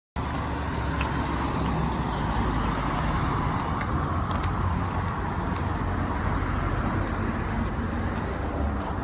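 Steady road-vehicle and traffic noise with a low rumble, starting abruptly just after a cut from silence.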